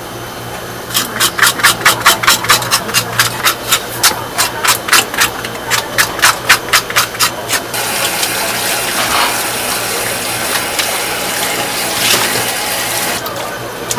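A fast series of scraping strokes, about four or five a second, for several seconds, then water running steadily for about five seconds before it stops.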